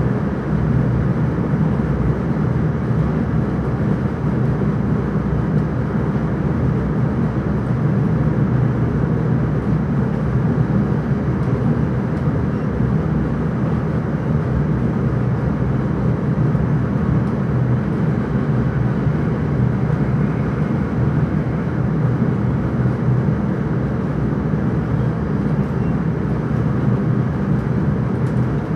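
Electric intercity train running at speed, heard from inside the driver's cab: a steady low rumble that does not change.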